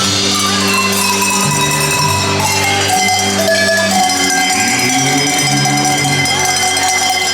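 Live German band music with tuned cowbells ringing out a melody over held low notes.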